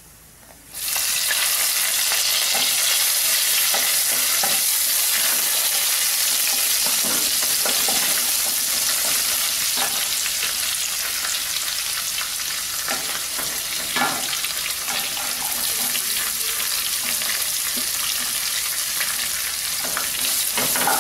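Chopped ginger, garlic and curry leaves hitting hot oil in a nonstick kadai and sizzling, the hiss starting suddenly just under a second in and then frying steadily. A wooden spatula stirring them gives a few knocks against the pan.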